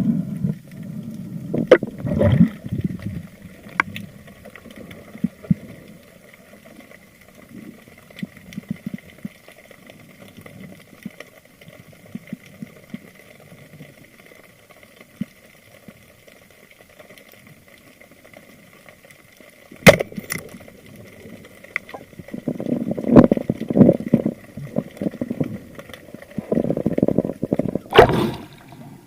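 Water sounds picked up by a spearfisher's camera: quiet gurgling and small clicks, a sharp click about two-thirds of the way in, then a stretch of louder choppy splashing with another sharp click near the end.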